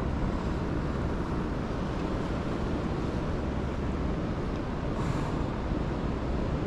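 Steady low rushing rumble of outdoor noise, like fast river water and wind on the microphone, with a short hiss about five seconds in.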